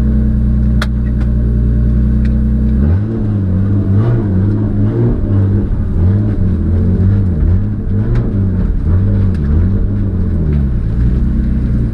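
Turbocharged Toyota 1JZ-GTE inline-six in a Nissan Skyline R33 idling steadily, then, about three seconds in, revving up and dropping back again and again, roughly once a second, before settling back near the end.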